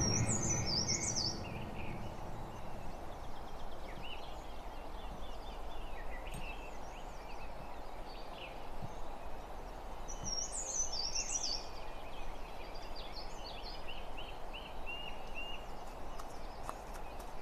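Songbirds chirping over a steady, faint background noise, with a quick, high twittering phrase twice, about ten seconds apart.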